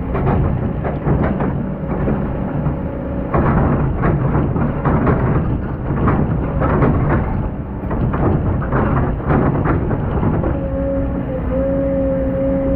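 Hydraulic excavator at work: its diesel engine runs under load while the bucket scrapes and knocks through hard, compacted sand. About ten seconds in, a steady whine joins it and holds almost to the end.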